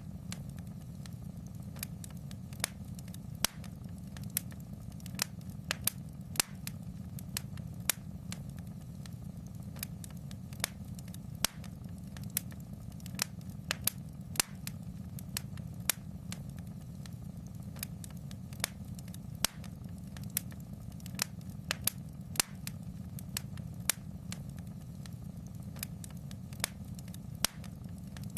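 Wood fire crackling in a fireplace: irregular sharp snaps and pops, about one or two a second, over a steady low rumble.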